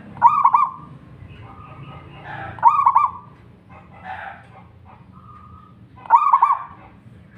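Zebra dove (perkutut) calling three times, each a short phrase of a quick rising note and a few rapid coos, with fainter calls of other birds behind.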